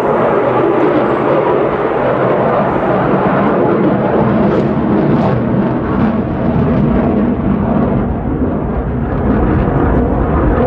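F-35A Lightning II fighter jet's single F135 afterburning turbofan, heard loud and rumbling as the jet flies its display, swelling up at the start and holding loud, with a brief crackle around the middle.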